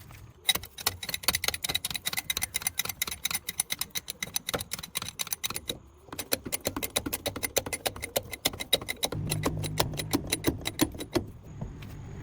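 Hand ratchet wrench clicking rapidly, about eight or nine metallic clicks a second, in two runs of about five seconds each with a short break in the middle. A low hum joins near the end.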